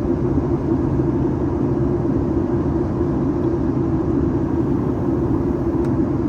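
Steady cabin noise inside a Boeing 737 MAX 8-200 in flight: rushing airflow over the fuselage and the drone of its CFM LEAP-1B engines, with a strong low hum.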